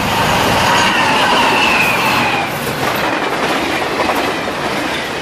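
A train passing very close by on the line, sounding like it's coming straight through the camp: a loud, steady rumble and rattle of wheels on the rails. A high whine slides slowly down in pitch through the first couple of seconds.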